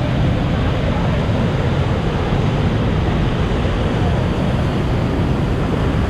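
Waterfall swollen by heavy rain, a huge volume of water pouring over it into the pool, making a loud, steady rush strongest at the low end.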